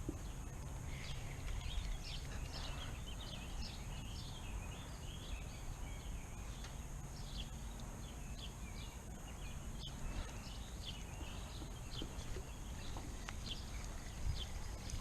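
Birds chirping and singing, many short rapid calls overlapping throughout, over a steady low rumble.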